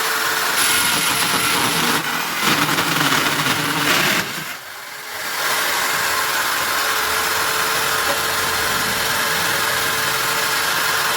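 Electric drill motor driving a hole saw, running steadily with a constant whine; it drops off briefly about four and a half seconds in, then runs steadily again.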